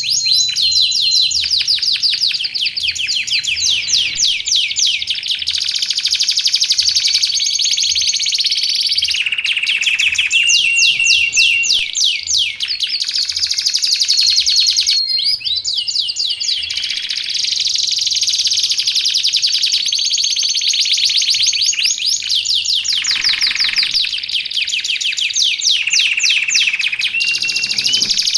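Domestic canary singing a continuous, high-pitched song of fast trills and rolls, broken by a few brief held whistled notes.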